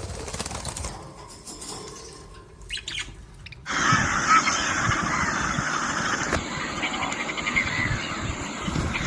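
Birds calling, with a few short high calls early on. About four seconds in, a much louder, dense mix of noise and calls sets in abruptly and carries on.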